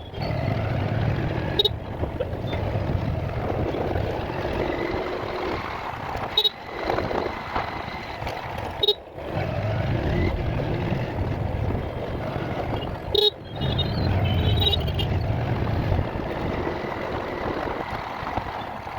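Steady engine and road rumble heard from a moving bike on a ride, with traffic around. The sound drops out abruptly with a click four times, about 2, 6.5, 9 and 13 seconds in.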